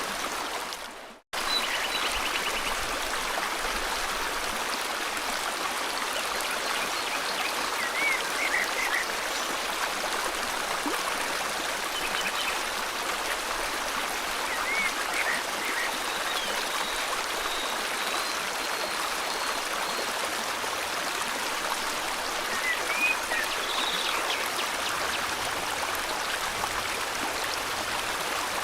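River water flowing steadily, with a few short, high bird chirps now and then. About a second in, the sound fades briefly to silence, then comes straight back.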